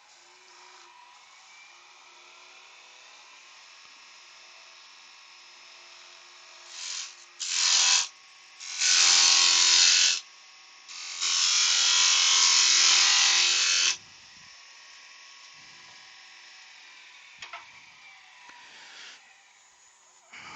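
Wood lathe running with a steady hum, with three loud rasping stretches about seven, eight and a half, and eleven seconds in as the spinning spalted beech box is worked against.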